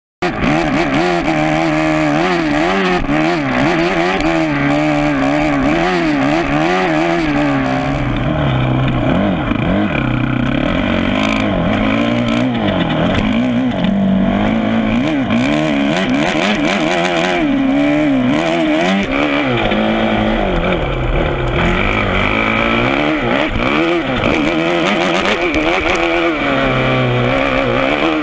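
Kawasaki KX450F motocross bike's single-cylinder four-stroke engine revving up and down over and over as it is ridden hard, the pitch rising and falling every second or two.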